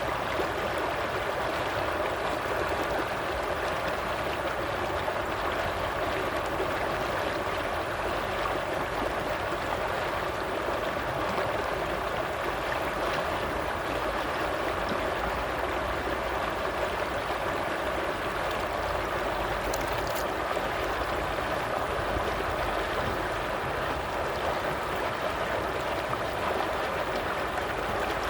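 Stream water running steadily, an even rushing of flowing water.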